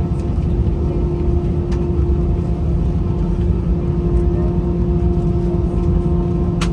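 Steady cabin hum of an Airbus A320 on the ground after landing: a constant tone over a low rumble from the idling engines and air systems. A single sharp click comes right at the end.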